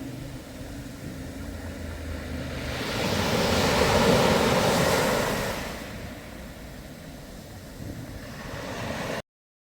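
Sea waves washing onto the shore, one surge swelling up and falling away in the middle, with wind buffeting the microphone; the sound cuts off suddenly near the end.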